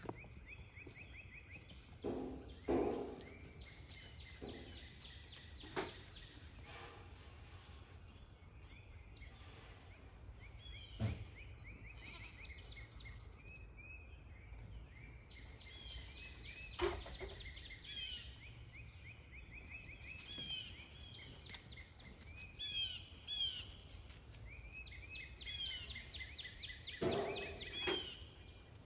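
Small birds chirping in quick series of short repeated notes, with a few louder, lower sounds about two seconds in and again near the end.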